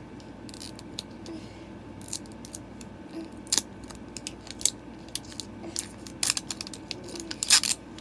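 Plastic packaging of a Mini Brands toy capsule being opened by hand: irregular snips, crinkles and clicks, busier and louder in the second half, with the loudest rustle near the end.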